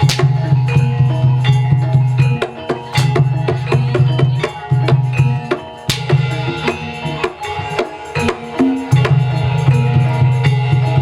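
Gamelan music for a jaranan horse-trance dance, driven by quick kendang hand-drum strokes, with the held ringing tones of metal gamelan instruments and a heavy low sound that drops out briefly a few times.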